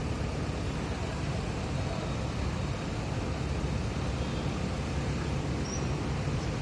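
Diesel engine of a JCB backhoe loader running steadily, a low, even rumble.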